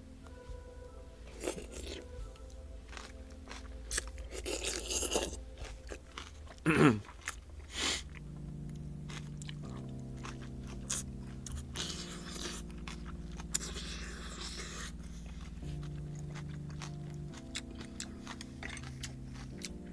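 Close-up chewing of crisp stir-fried water spinach, with many small crunches and louder bouts of crunching, and one brief louder falling sound about a third of the way through. Background music plays throughout.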